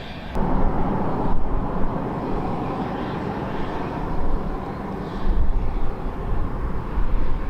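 Narrow-gauge steam train running, a steady rushing noise with heavy low rumble that starts suddenly about a third of a second in.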